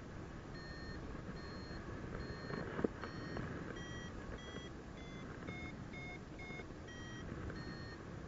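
Paragliding variometer beeping in rising air: short beeps about twice a second, going higher and coming faster in the middle, then dropping back, the sign of the glider climbing in lift. Steady wind rush runs underneath, and there is a single sharp knock about three seconds in.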